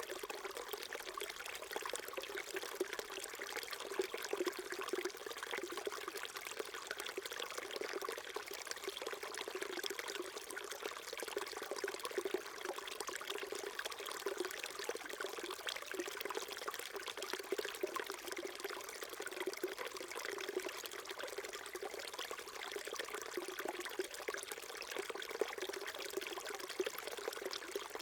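Small mountain stream flowing and trickling over rocks, a steady babble of water without breaks.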